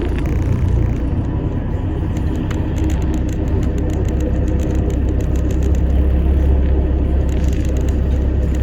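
Low, steady rumble inside an Alexander Dennis Enviro400 MMC double-decker bus on the move: engine drone and road noise, with a faint steady hum over it.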